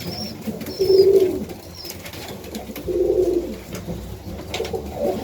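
Domestic pigeons cooing, with drawn-out coos about one and three seconds in and another starting near the end. A few short high chirps are heard between them.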